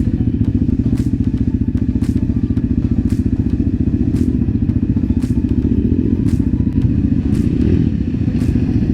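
Single off-road vehicle engine running at fairly steady revs, with a faint regular click about once a second.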